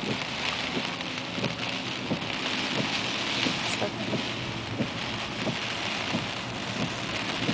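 Heavy rain falling on a moving car: a steady hiss with many scattered, irregular drops knocking on the car.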